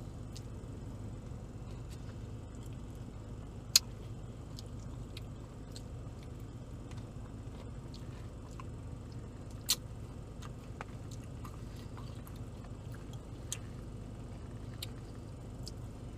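Quiet eating sounds: soft chewing and small mouth clicks over a steady low hum, with two sharp clicks, one about four seconds in and one near ten seconds.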